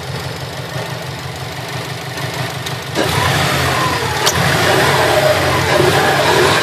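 1999 Subaru Legacy GT-B's twin-turbo flat-four boxer engine idling with a steady, rhythmic beat, then about three seconds in it gets louder with the pitch rising and falling as it is revved. A single sharp click sounds about a second after that.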